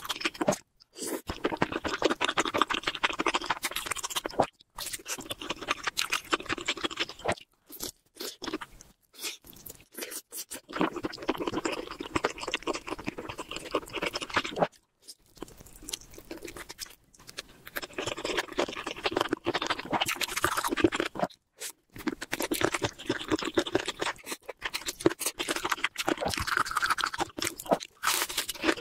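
Close-miked eating: a person chewing and crunching food, in stretches of dense, crackly chewing sounds broken by several short silences.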